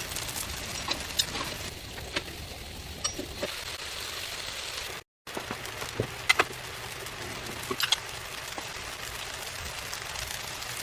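Steady hiss of background noise with scattered small clicks and knocks. The sound cuts out completely for a moment about five seconds in.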